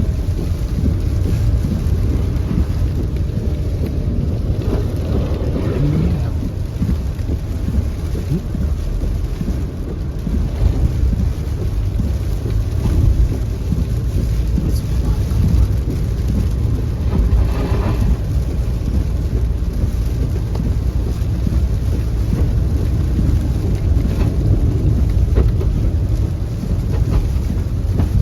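Heavy rain falling, with a steady low rumble beneath the hiss.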